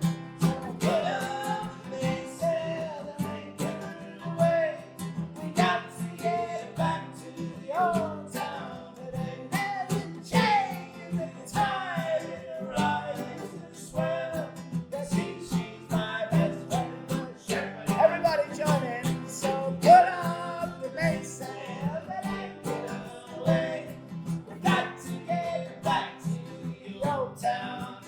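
Acoustic guitar strumming chords in a steady rhythm, with a wavering lead melody line over it: an instrumental break in a folk song.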